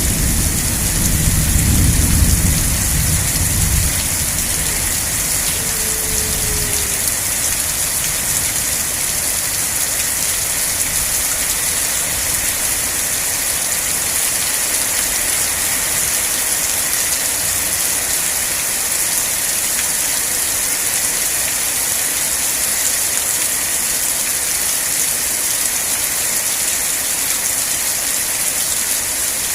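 Steady rain falling, a dense even hiss. A low thunder rumble fades out during the first few seconds.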